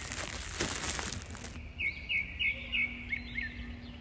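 Birds chirping, with a run of about five quick repeated chirps about two seconds in and other arching calls around it. A rustling noise in the first second and a half.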